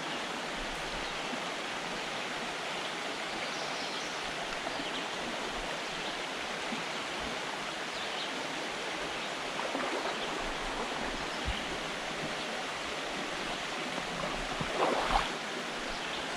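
Small woodland stream running over rocks and little waterfalls, a steady rush of water. A brief louder noise stands out near the end.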